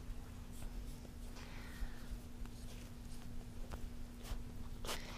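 Goldendoodle puppies making light scratching and rustling noises, a scatter of short scratches and clicks, over a steady low hum.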